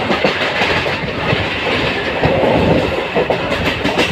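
Train running along the line, heard from on board: a steady rumble with the clickety-clack of the wheels knocking over rail joints, a quick run of clicks near the end.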